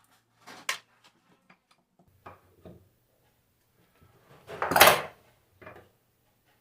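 Metal tools and alternator parts being handled on a workbench: a few light clicks and knocks, then a louder sliding clatter about five seconds in.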